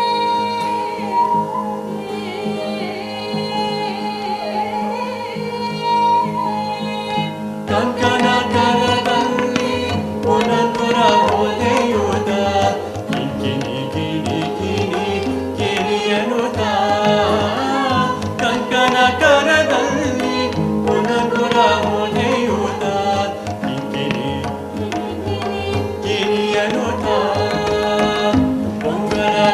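Live Indian fusion band playing. For the first few seconds a held, sliding melody sounds over a steady drone. About eight seconds in, the full ensemble comes in, with tabla and drum kit under guitar, flute and melody.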